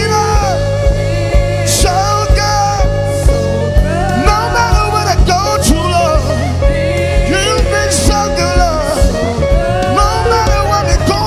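Praise and worship music: a band playing over a steady drum beat, with singing.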